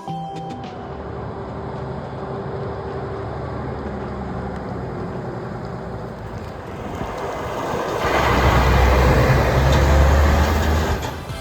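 Scania P340 fire engine's diesel engine running with road noise, growing louder about eight seconds in and dropping away near the end.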